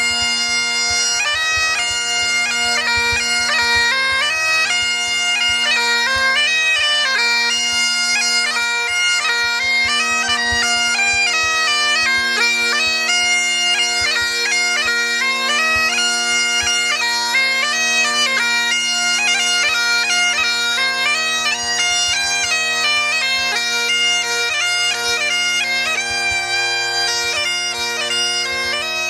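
Bagpipes playing a tune: a fast-moving chanter melody over steady, unbroken drones.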